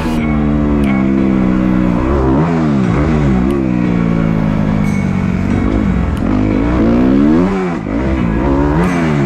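Dirt bike engine revving up and dropping back again and again as the throttle is opened and closed while riding, its pitch climbing and falling every second or two.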